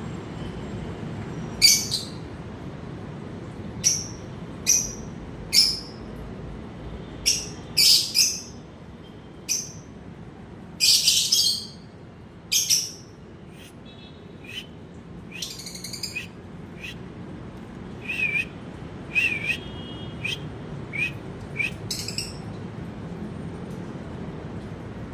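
Birds chirping: a series of short, sharp, high calls, some single and some in quick pairs, spread over about twenty seconds and stopping a few seconds before the end.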